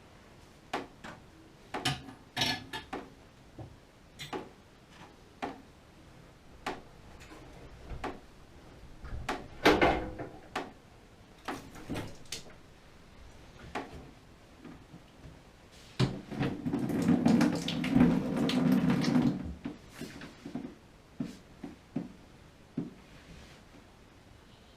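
Scattered clicks, taps and knocks of parts and tools being handled during repair work on a gas water heater. The sharpest knock comes about ten seconds in, and a denser, continuous clattering stretch lasts about three seconds later on.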